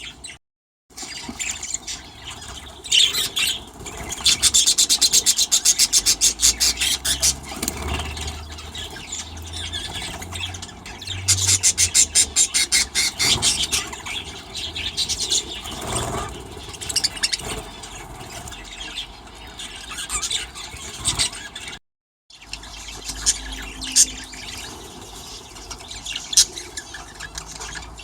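Aviary budgies, newly fledged chicks among them, chattering and squawking. Twice, from about four seconds in and again from about eleven seconds in, there is a long run of fast-repeated high squealing calls.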